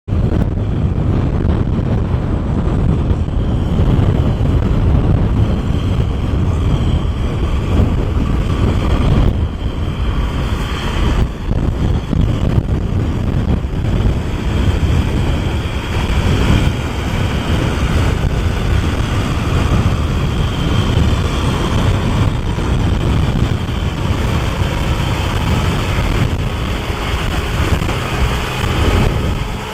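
Kubota M6040SU tractor's four-cylinder diesel engine running steadily while plowing wet rice-field mud.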